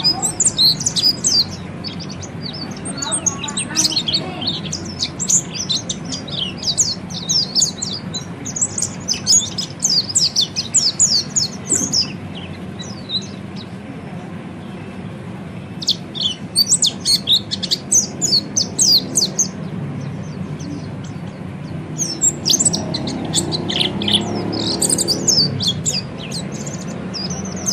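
Orange-headed thrush (peleci) singing in the rapid, high twittering 'ngeriwik' style, in phrases of several seconds separated by short pauses, over a steady low hum.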